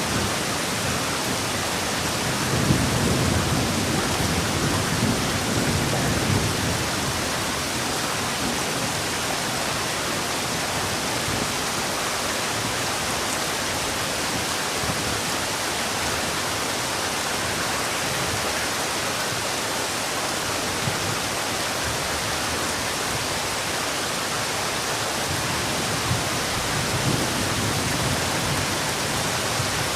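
Heavy rain falling steadily, with a low rumble that swells a few seconds in and again near the end.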